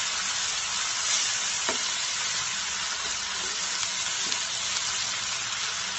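Shrimp and ground-spice masala sizzling in oil in a frying pan, just loosened with a little water, as a wooden spatula stirs it: a steady hiss with an occasional light scrape of the spatula.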